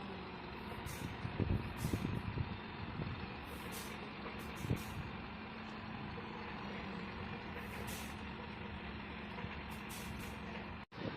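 Eicher Pro 6025T tipper truck's diesel engine running steadily, with a few knocks in the first five seconds and repeated brief high hisses.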